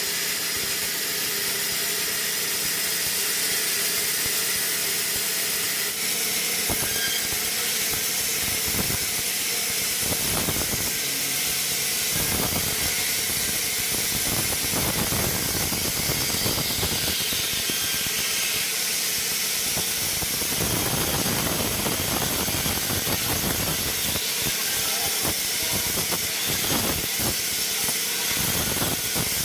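Sawmill machinery running with a steady hiss. From about seven seconds in, rougher, uneven cutting noise comes and goes.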